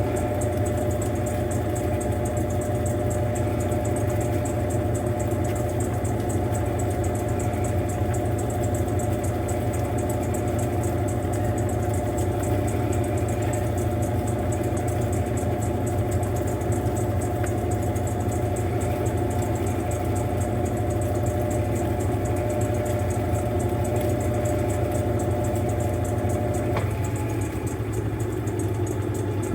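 Mueller Popmatic 8 kg washing machine running mid-cycle, a steady motor hum with a fixed whine. The tone changes about 27 seconds in as the machine shifts its action.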